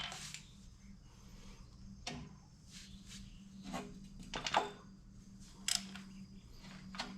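A few scattered light metallic clicks and knocks, most likely tools and engine parts being handled while the engine's lower end is dismantled. A faint steady low hum runs underneath.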